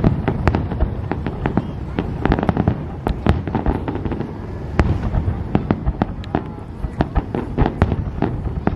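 Fireworks display: a rapid, unbroken run of bangs and pops, several a second, over a constant rumble.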